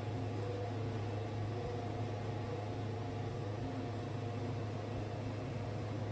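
Wood-Mizer band sawmill running with a steady, unchanging drone and a strong low hum.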